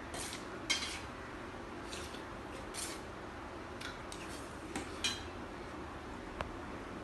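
Light clinks and scrapes of dishware and utensils during a meal: about nine short, irregular knocks and scrapes against a plate over several seconds.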